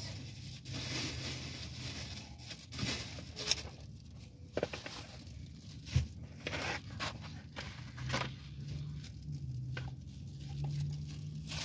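Close-up chewing and mouth sounds of someone eating buffalo chicken snack bites, with scattered small clicks and a soft knock about halfway through.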